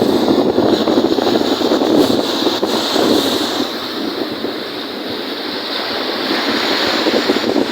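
Strong wind buffeting the microphone over the sound of waves on a lake, a rough, gusting rush that eases slightly midway.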